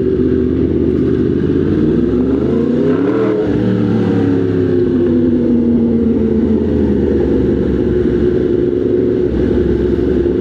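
Motorcycle engine pulling under way: the revs climb for about three seconds, fall back at a gear change, then climb again more gently and hold steady.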